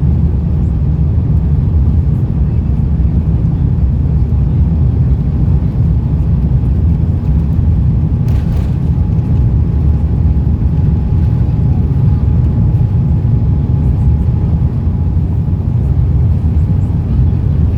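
Steady, loud low rumble of an Airbus A350-900 in flight or on its takeoff run, heard inside the passenger cabin: Rolls-Royce Trent XWB engines and airflow noise, with a faint steady tone through the middle.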